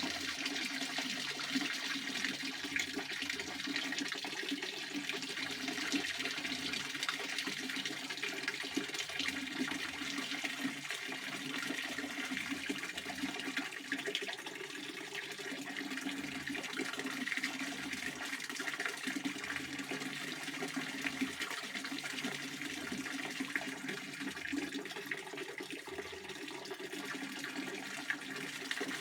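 Pond water fountain splashing steadily, a continuous rush of falling water.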